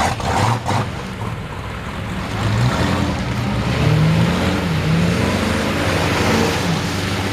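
Truck engines running, their pitch wavering and briefly rising and falling, over a steady hiss of spraying water.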